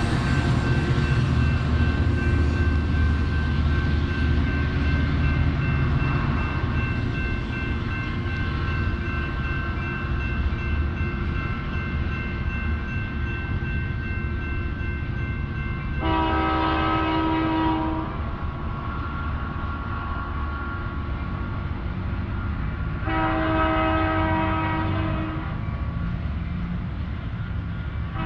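A passenger train running away along the tracks, its heavy low rumble easing off over the first several seconds. Then a distant train horn sounds two long blasts of a few seconds each, a few seconds apart, with a third blast starting just at the end.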